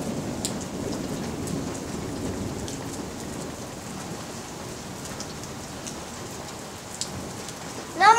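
Steady rain falling, with scattered drops ticking. A low rumble of thunder dies away over the first few seconds.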